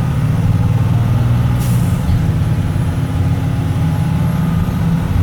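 CAT C7 diesel engine of a 2006 Blue Bird Vision school bus running steadily, heard from inside the bus. A short hiss of air from the air brakes comes about a second and a half in.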